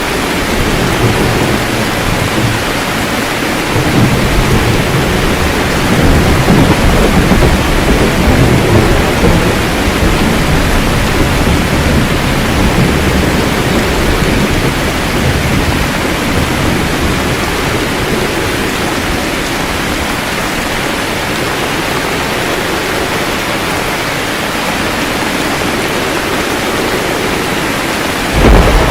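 Steady heavy rain with thunder rumbling low underneath, swelling from about four seconds in to about ten seconds. A louder burst of thunder breaks in right at the end.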